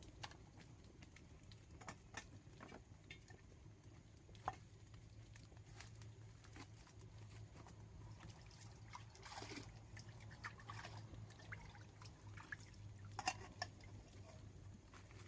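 Faint scattered drips and small sharp ticks of water, over a low steady hum.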